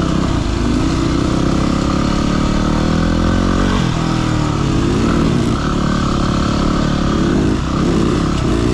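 Yamaha WR250R's single-cylinder four-stroke engine running under way on a dirt trail, its revs repeatedly rising and falling with the throttle, more often near the end.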